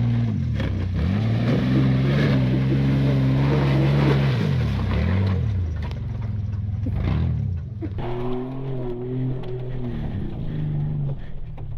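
Mud truck's engine revving up about a second in, holding high for a few seconds, then dropping back. It rises and eases off again, lower, in the second half.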